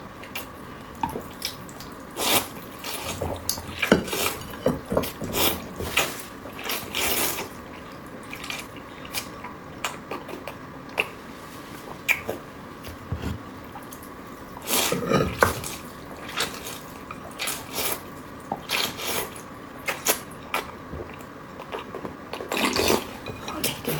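A person eating rice noodles close to the microphone: wet chewing and mouth sounds, with irregular smacks and clicks and a louder spell about 15 seconds in.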